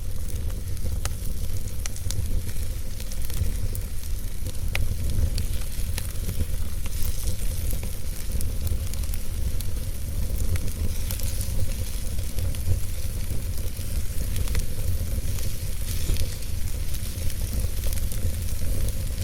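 Wood fire burning in a fireplace: a steady hiss over a low rumble, with a few sharp crackles and pops scattered through.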